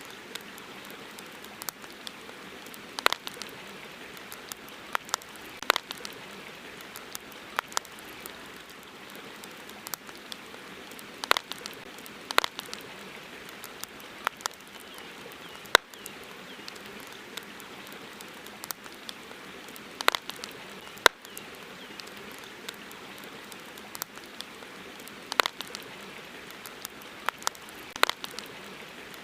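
Campfire crackling: sharp, irregular pops and snaps, a few much louder than the rest, over a steady soft hiss.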